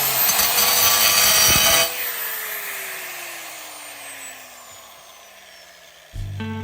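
A power tool running at full speed, then switched off about two seconds in, its motor winding down with a steadily falling whine for several seconds.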